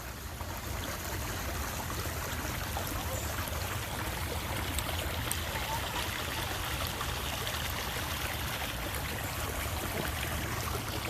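A small creek running steadily, a constant rushing of water.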